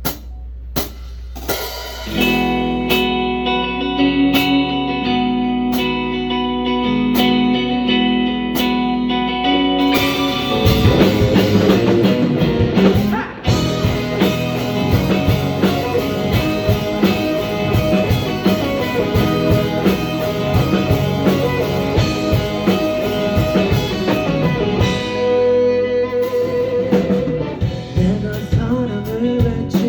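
Live band playing a song's instrumental intro: steady ticking with sustained chords at first, then the full band with drums comes in about a third of the way through.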